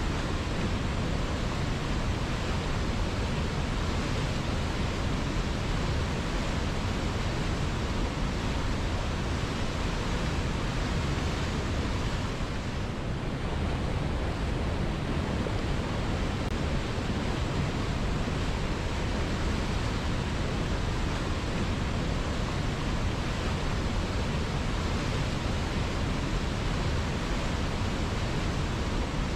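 River water flowing steadily, an even rush of sound that softens slightly for a moment about halfway through.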